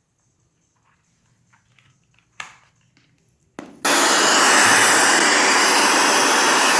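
A few faint ticks and a sharp click, then, a little before four seconds in, a loud steady hiss switches on suddenly: static from the Fat Shark FPV goggles' analog receiver, played through a Bluetooth speaker, with no video transmitter signal yet to tune to.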